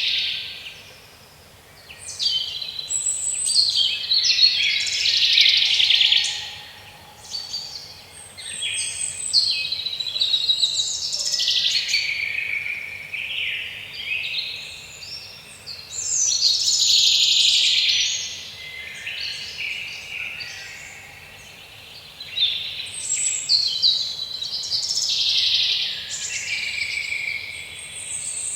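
Songbirds singing in woodland, phrases of chirps and warbles coming in bouts every few seconds over a faint steady background hush.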